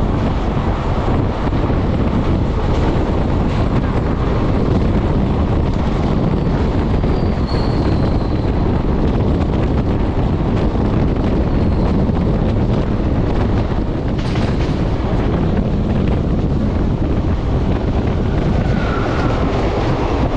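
Passenger express train running on the rails, a steady loud rumble of wheels and coach. A faint short squeal comes a little before halfway, and a single sharp knock about two-thirds of the way through.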